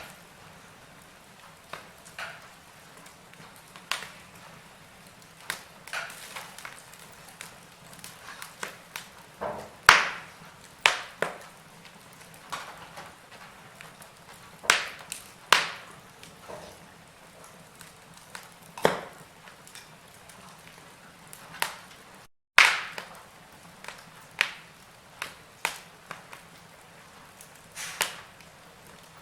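Wood fire burning in a fireplace, crackling with irregular sharp pops, a few of them loud, over a faint hiss. The sound cuts out completely for an instant about two-thirds of the way through.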